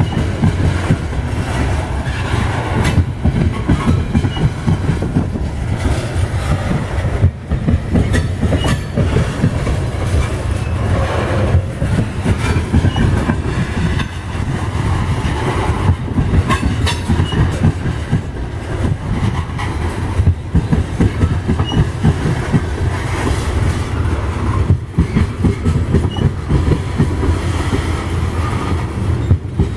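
A coal train's loaded-style coal cars rolling steadily past on the rails: a continuous low rumble of steel wheels, with repeated clicks and knocks from the wheels on the track.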